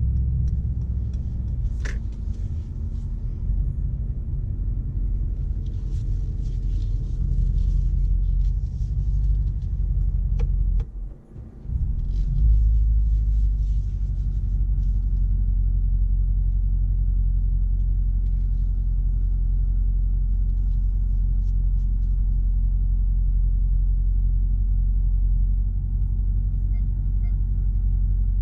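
Low, steady rumble of the Mercedes-AMG G63's 4.0-litre twin-turbo V8 and drivetrain, with a single click about two seconds in. The rumble dips briefly about eleven seconds in, then comes back slightly stronger and holds steady.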